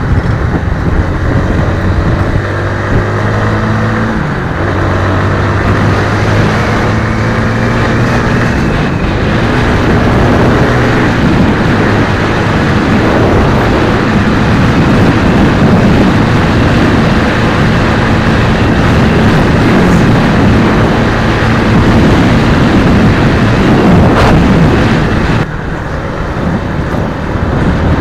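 Suzuki Raider 150 FI's single-cylinder four-stroke engine running under way, its pitch rising and falling with throttle and gear changes, over steady wind noise on the microphone. The engine note drops lower for a couple of seconds near the end.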